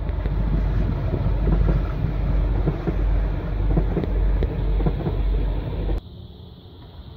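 SNCF X 76500-series (AGC) diesel railcar passing close by: a steady rumble of engine and wheels on the rails, with wind buffeting the microphone. About six seconds in the sound drops suddenly to a much fainter rumble of a distant train.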